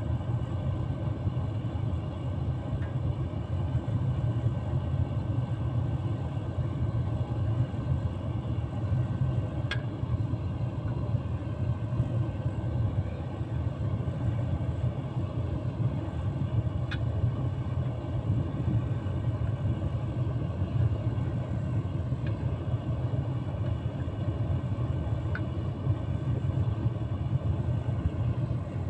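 Gas-fired casting furnace with a fan blower running flat out, a steady low rumble of burner and blower, while it heats glass to melting. A few faint ticks sound over it.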